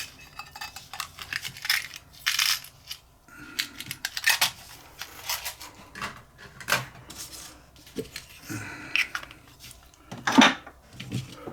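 Small metal objects clinking and clattering as they are picked up and set down on a desk, in irregular knocks, the loudest about ten seconds in.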